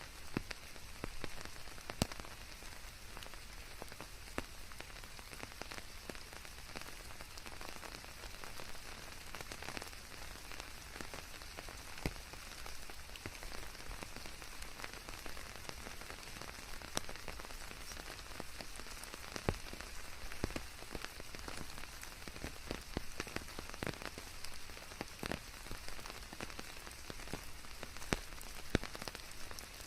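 Steady rain falling on a surface, a dense hiss of rain mixed with white noise, with many sharp individual drops striking close by.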